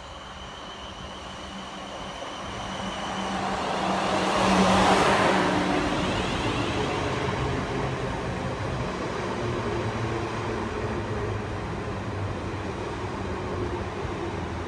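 South Western Railway electric multiple-unit train running in along the platform. It grows steadily louder as it approaches, is loudest as the front passes about four to five seconds in, then its carriages go by with a steady rumble.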